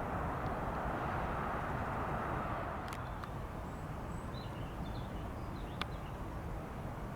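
Boeing 787 Dreamliner jet engines rumbling as the airliner passes, easing off about two and a half seconds in. A few faint bird chirps follow near the middle.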